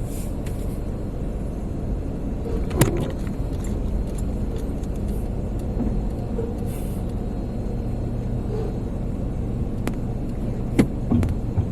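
Steady low rumble of a car running at idle, heard from inside the cabin, with a few sharp knocks about three seconds in and again near the end.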